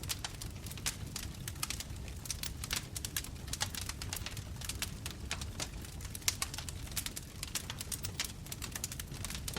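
Wood bonfire crackling: many irregular sharp pops and snaps, several a second, over a steady low rumble of the flames.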